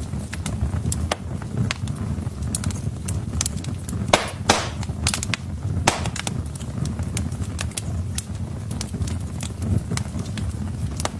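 Logs burning in a fireplace: a steady low rumble with frequent sharp crackles and pops, and a short run of louder pops about four to five seconds in and another near six seconds.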